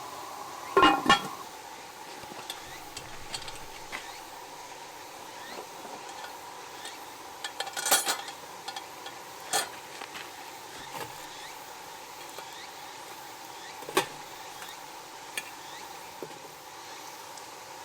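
Metal cooking utensils knocking and clinking against cookware a handful of times, the loudest about a second in and around 8 seconds, over a steady hiss.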